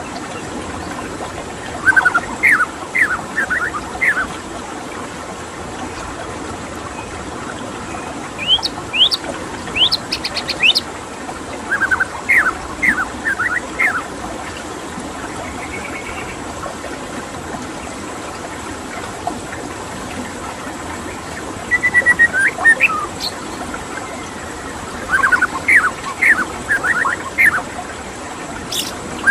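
White-rumped shama singing in short phrases of quick, sharply sweeping whistled notes, a few seconds apart, over a steady rush of running water.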